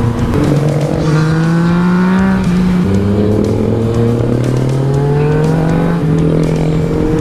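Yamaha MT-09 SP three-cylinder engine with an Akrapovič exhaust, heard onboard while riding. Its pitch climbs slowly and jumps up or down several times as the throttle and gears change.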